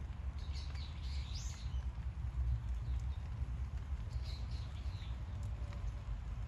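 A steady low rumble with small birds chirping briefly, once about half a second in and again past four seconds.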